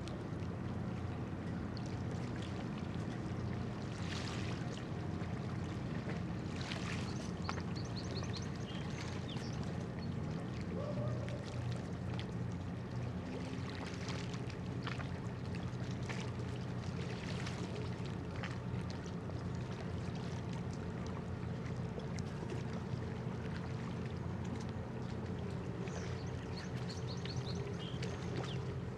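Steady low drone of a cargo ship's engines running while it lies at anchor, made up of several even hums.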